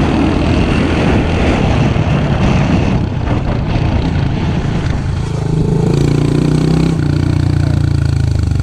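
Small off-road engine of a pit bike or four-wheeler running under throttle while riding, its pitch rising and falling. The throttle eases off about seven seconds in, with rough wind and ride noise over the engine.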